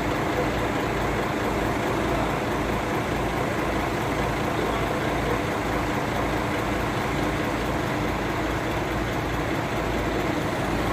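Boom truck engine running steadily at an even, unchanging speed.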